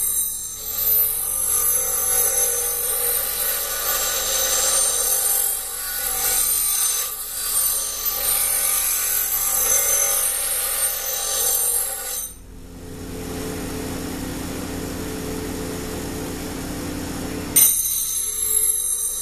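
Power tool grinding on the knife blank, a dense scraping noise with a high whine. It cuts abruptly about twelve seconds in to a quieter, steadier tool sound, then cuts back about five seconds later.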